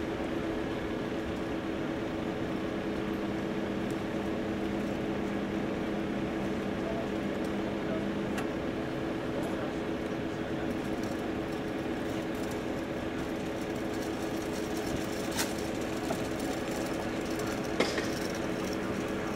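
Steady mechanical hum with a couple of constant tones, like a running engine or machine, with two short clicks near the end.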